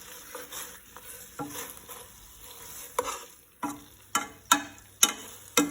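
A utensil stirring and scraping chicken in a frying pan, with a light sizzle: the adobo sauce has cooked down dry. In the second half come about five sharp knocks of the utensil against the pan.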